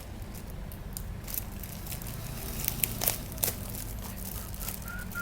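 Packaging crinkling and crackling as a parcel is handled and opened. A few sharper crackles come about three seconds in.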